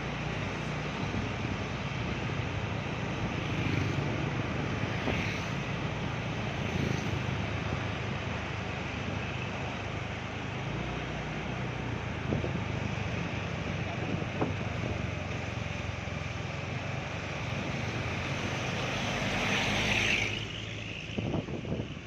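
Loaded truck's diesel engine running steadily under load, with a constant hiss of noise over it. Near the end a louder hiss comes, then the sound drops suddenly.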